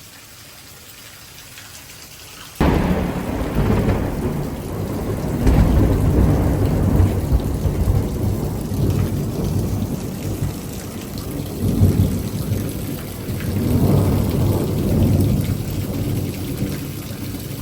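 Steady rain, then about two and a half seconds in a sudden clap of close thunder that rolls into a long low rumble. The rumble swells several more times over the rain.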